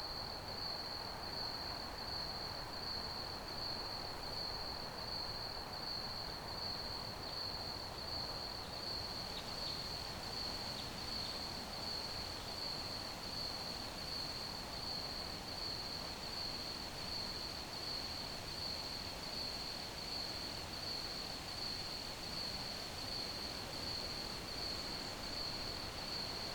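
Crickets chirping in a steady, unbroken high-pitched trill, over a soft even hiss of background noise.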